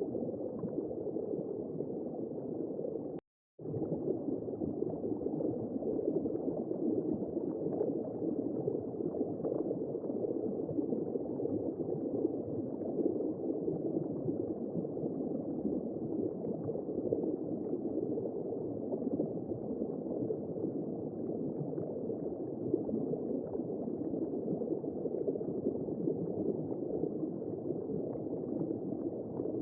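Womb-sound white noise: a steady, muffled whooshing hiss with no high end. It cuts out completely for a fraction of a second about three seconds in, then carries on unchanged.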